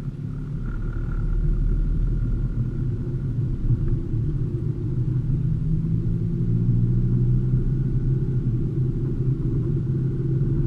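Turbodiesel (TDI) car engine heard from inside the cabin, pulling gently at low revs through the low gears at light boost: a steady low drone with a faint high whistle over it. A short click near the end.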